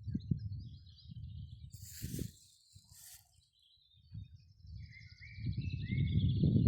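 Small birds chirping and singing, with a run of short rising whistled notes near the end. Under them is a low, irregular rumble of wind on the microphone that grows louder in the last second or so. Two brief hissing rustles come about two and three seconds in.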